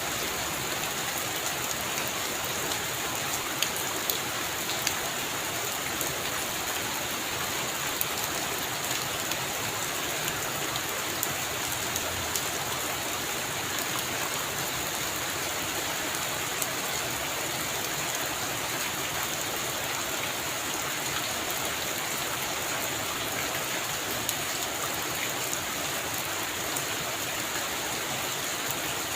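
Heavy rain falling steadily on a roof, with scattered louder drop ticks.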